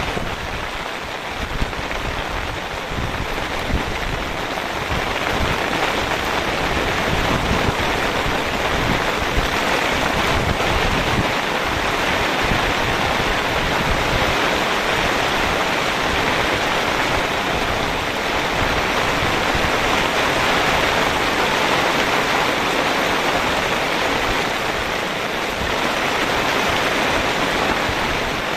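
Heavy rain of big, thick drops falling steadily, an even dense hiss with a low, uneven rumble underneath.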